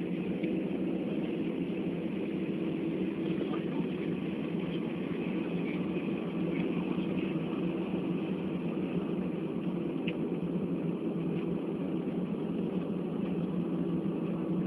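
Steady rumble of an airliner cabin on the ground just after landing: jet engine and airflow noise with a faint steady hum, and a few small clicks.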